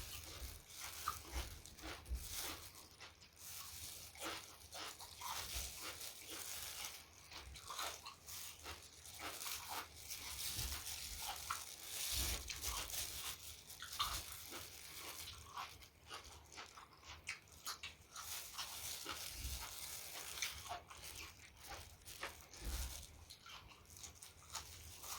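Close-miked eating: a person chewing, with irregular crunching bites and wet mouth clicks.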